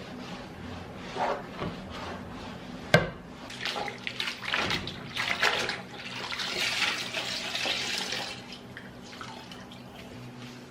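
Water running from a tap into a sink for a couple of seconds, after a sharp knock about three seconds in and short bursts of splashing and handling.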